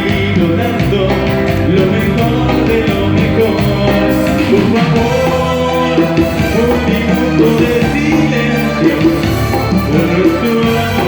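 Live cumbia band music: an instrumental passage, a melody line over sustained chords and bass, played loudly and evenly.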